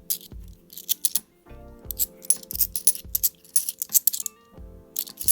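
Background music with a steady beat, over the clinking of £2 coins being handled and sorted.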